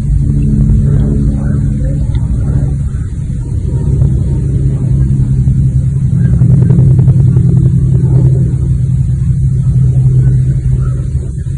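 Car engine running, heard from inside the cabin as a steady low hum that grows a little louder midway.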